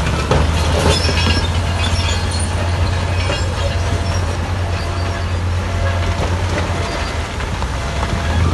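Crawler bulldozer working, its diesel engine giving a steady low drone while the steel tracks clank and give a short high squeak about once a second.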